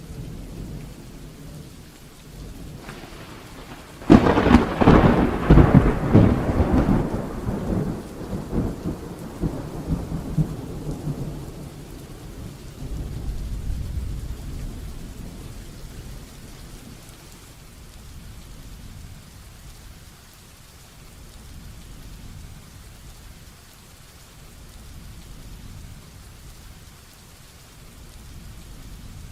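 Heavy rain falling steadily. About four seconds in, a close thunderclap cracks loudly and rolls on, fading over several seconds, with a lower rumble swelling again a few seconds later.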